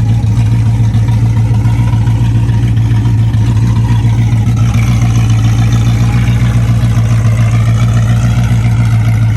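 Car engine idling loud and steady with a choppy, lumpy idle, jumping and chopping in the manner of an aggressive camshaft.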